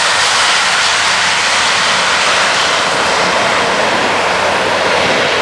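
Airbus A400M Atlas military transport's four TP400-D6 turboprop engines at takeoff power: a loud, steady noise with a faint low hum underneath.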